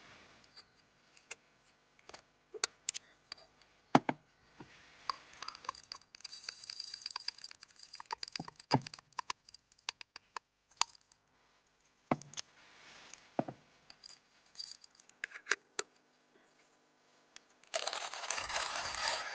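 Camping gear being handled and packed: scattered clicks and knocks with crinkling, rustling stretches between them, and a sharper knock about four seconds in. A steady rustling noise sets in near the end.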